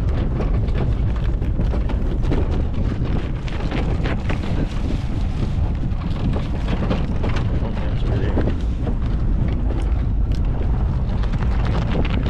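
1938 Chevrolet truck's engine running steadily, with heavy wind rumbling on the microphone.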